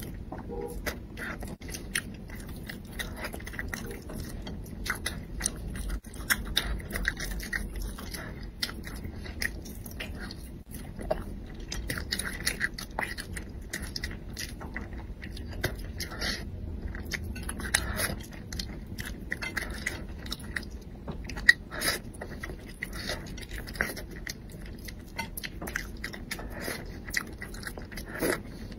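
Mouth sounds of a person chewing and biting soft braised fish, with many short, irregular wet clicks and smacks.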